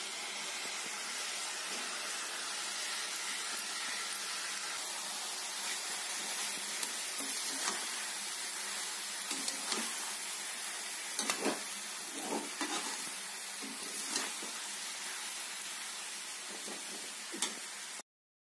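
Boiled rice and peas sizzling in hot oil in a metal kadhai as a flat metal spatula stirs them, with scattered scrapes and taps of the spatula against the pan. The sound stops suddenly near the end.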